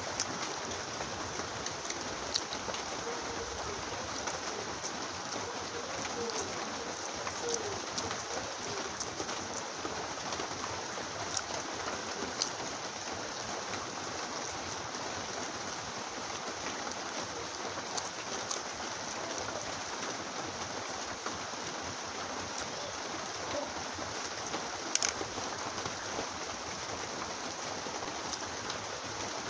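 Heavy rain falling in a steady hiss, with scattered short clicks on top, the sharpest about 25 seconds in.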